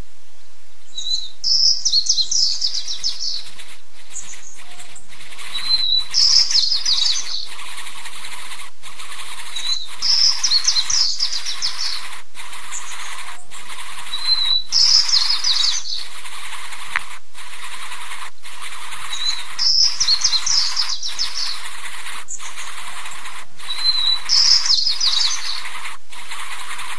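Bird calls: a short high note followed by a burst of rapid high chirps, repeated six times at even intervals about four and a half seconds apart, over a steady high hiss.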